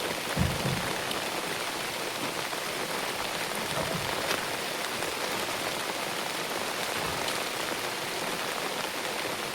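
Steady, even hiss like rain falling on surfaces, with a soft low thump about half a second in.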